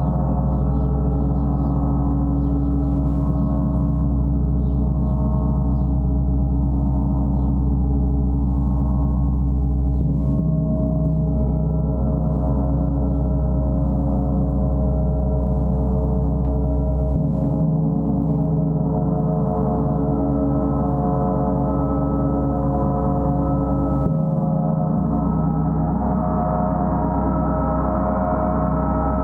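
Gong played as a continuous, sustained wash of many overlapping ringing tones over a deep hum. The low tones shift a few times as the gong is kept sounding.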